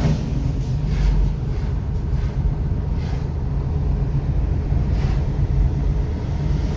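Steady low rumble of a car's engine and tyres on the road, heard from inside the moving car as it climbs a long hill.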